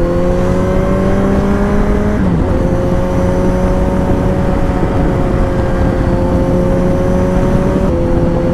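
2021 Kawasaki Z900's 948 cc inline-four engine under way at speed: the revs climb slowly, dip briefly about two seconds in, then hold nearly steady, over heavy wind rush.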